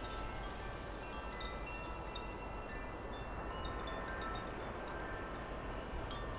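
Wind chimes ringing irregularly, many short overlapping high tones, over a steady low rumble of wind.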